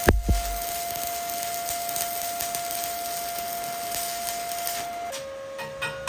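Stick welding arc burning an E7018 rod at about 120 amps: a steady hiss with a constant thin whine. Two knocks right at the start; near the end the whine drops in pitch and an even ticking pulse sets in.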